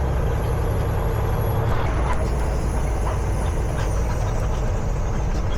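Semi truck (Peterbilt 379) diesel engine and road noise droning steadily while driving, heard from inside the cab.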